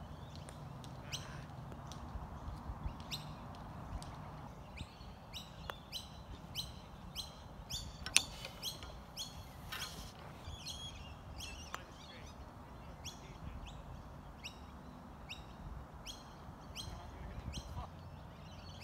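Birds chirping over and over in short, falling calls above a low steady background rumble, with one sharp click about eight seconds in.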